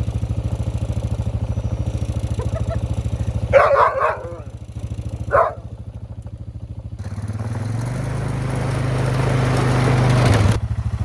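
ATV (quad) engine idling with a steady pulse, then revving up and pulling away, growing louder over the last few seconds. Two short dog barks come through the engine noise about a third of the way in.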